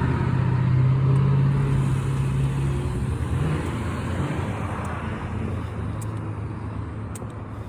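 A car driving past and away: a steady low engine hum that drops out about three and a half seconds in, and road noise that fades steadily as it recedes.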